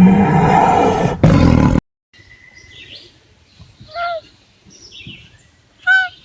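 Animal calls: a loud, low, drawn-out call that cuts off abruptly under two seconds in, followed after a near-silent gap by two short, high chirping calls, one near the middle and one at the end.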